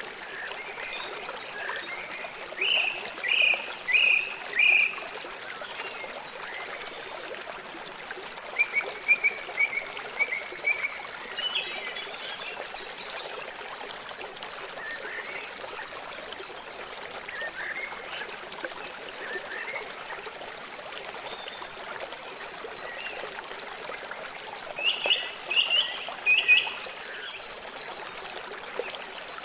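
A small stream trickling steadily, with birds chirping over it in three short runs of quick calls.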